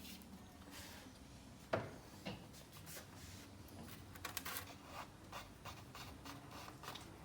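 Faint handling noises as new electrical wire is fed through a caravan panel: the wire rubbing and scraping, with scattered light clicks, the loudest a little under two seconds in.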